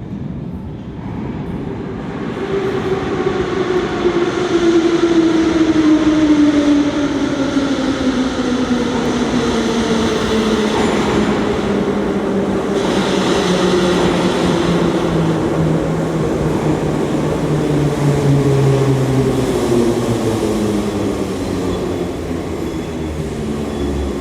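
Soviet-built 81-717.5M 'Nomernoy' metro car running, with the whine of its traction motors and gearing falling slowly and steadily in pitch over the rumble of the wheels: the train is slowing down, typical of braking into a station. There is a brief hiss about halfway through.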